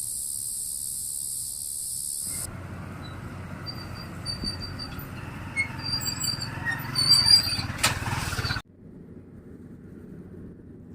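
A steady high hiss for about two seconds, then a rice harvester machine running with a low rumble and short high squeaks. The squeaks get louder, then the sound cuts off abruptly to a quieter low rumble near the end.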